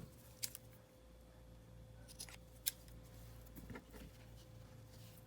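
A few short, sharp snips and clicks from craft handling of lace trim and a paper matchbook journal, spread a second or so apart.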